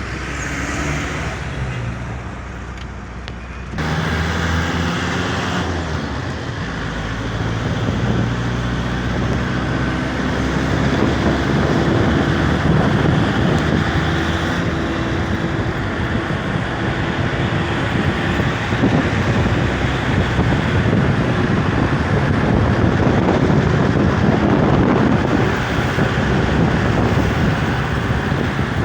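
Road traffic with a motor vehicle engine running, its pitch climbing as it picks up speed, and wind noise on the microphone. The sound gets suddenly louder about four seconds in.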